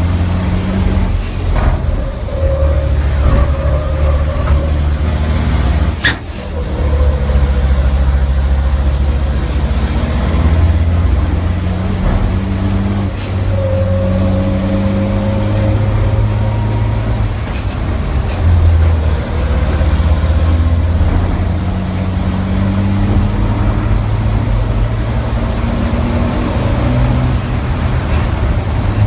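Racing truck's diesel engine heard from onboard, running hard at high load, with a brief lift near 6 seconds. A high turbo whistle dips and climbs again five times as the driver lifts off and gets back on the throttle, each dip beginning with a sharp click.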